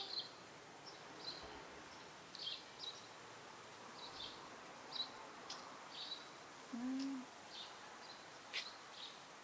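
Faint high chirps of small birds, a short call every half second or so. A few sharp clicks come in between, and a brief low hum sounds about seven seconds in.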